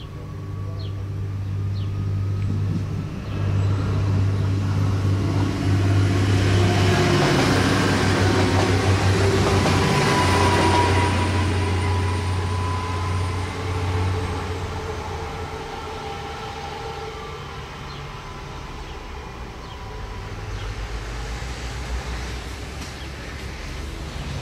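Bimode AGC regional railcar (B 81500 series) passing under diesel power, a steady low engine hum with wheel noise over the rails. It builds to its loudest about a third of the way in, then fades as the train runs off.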